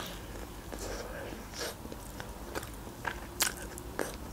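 Close-miked biting and chewing of a slice of homemade pizza, with several short crisp crunches from the crust.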